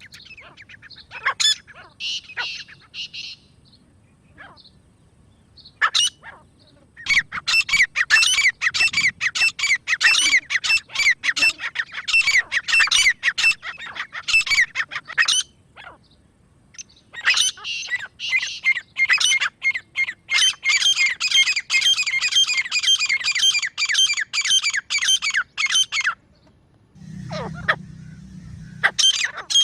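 Grey francolin calling: scattered notes at first, then two long runs of rapid, harsh repeated notes, about four a second, with a short pause between them. A brief low hum comes near the end.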